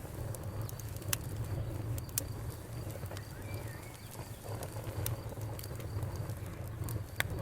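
Wood fire crackling, with sharp scattered pops over a low steady rumble. Crickets chirp in a faint, evenly pulsed high trill that comes and goes.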